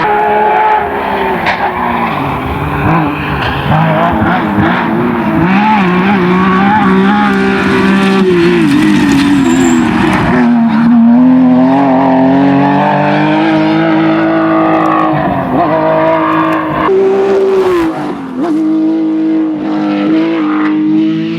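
Rally car engine running hard at full load, its note climbing and dropping repeatedly through gear changes and lifts off the throttle.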